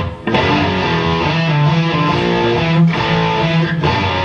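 Electric guitar with an effects pedal engaged, playing a heavy riff in choppy phrases with short breaks.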